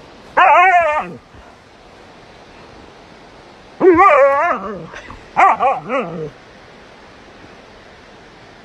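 A dog vocalizing in wavering, whine-like calls: one short call about half a second in, a longer one near the middle, then three quick shorter ones.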